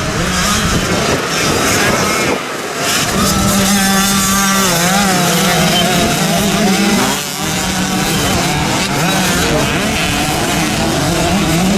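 Motocross bikes' single-cylinder engines racing on a dirt track, revving up and down as they pass, with brief dips as the riders come off the throttle about two and a half and seven seconds in.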